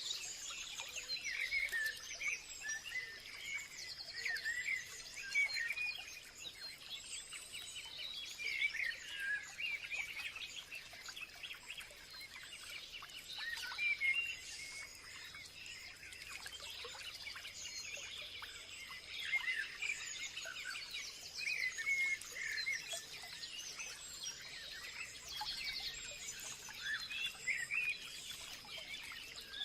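Many small birds chirping and twittering at once in a dense, overlapping chorus, over a steady high thin tone.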